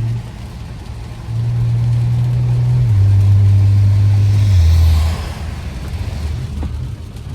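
BMW F10 535i's turbocharged inline-six running through a straight-piped exhaust with resonator and muffler deleted. The exhaust note dips as the throttle lifts, swells again about a second in, then drops in pitch in two steps and quietens about five seconds in.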